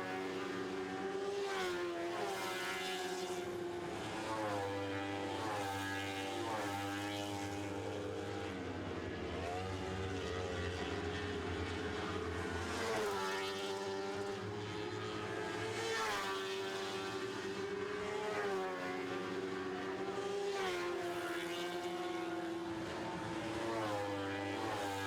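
Lightning Sprint race cars running at high revs on a dirt oval. Their motorcycle engines turn over 13,000 RPM, and the pitch climbs and drops every few seconds as the cars go down the straights and back off into the turns.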